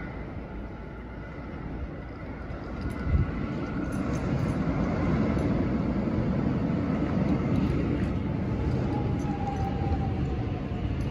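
Electric suburban train rolling into the platform, its low rumble building over the first few seconds and then holding, with a sharp knock about three seconds in.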